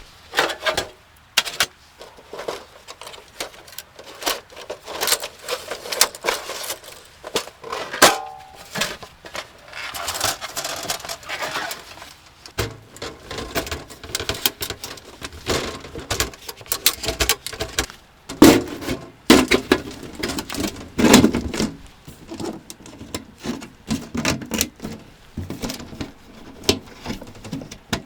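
Irregular clicks, knocks and rustling of gear being handled, with a few sharper knocks about 8, 18 and 21 seconds in.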